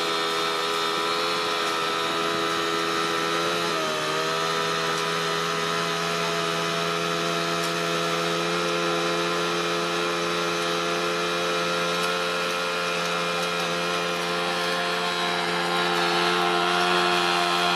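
Heavy construction machine's engine running steadily, its pitch dipping briefly about four seconds in, as under a momentary load, then holding steady again.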